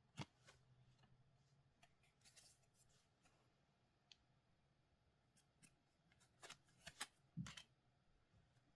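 Faint handling of trading cards and their packaging: scattered sharp clicks and taps, a short papery rustle a little over two seconds in, and a cluster of louder clicks about seven seconds in.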